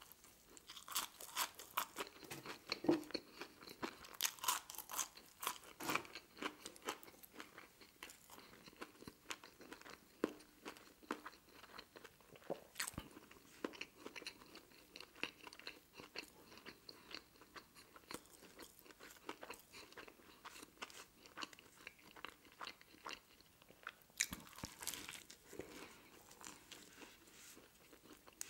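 Close-miked eating sounds of a person working through a Persian sandwich of deli meat and crunchy potato sticks, with fries: wet chewing and crisp crunching. The crunching is busiest in the first several seconds and again near the end, with quieter chewing between.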